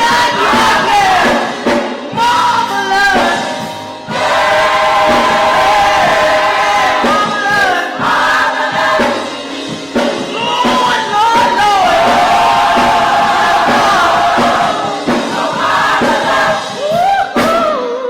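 Church choir and congregation singing a gospel song, voices holding long notes over instrumental accompaniment.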